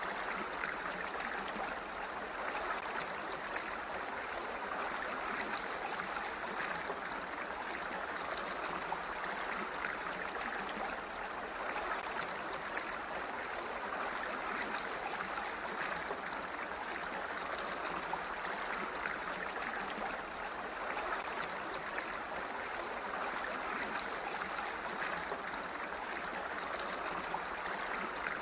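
Flowing water running steadily, an even, continuous rush with no breaks or separate splashes.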